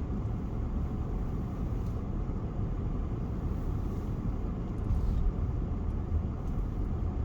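Steady low rumble of a car driving in town traffic, engine and road noise heard from inside the cabin.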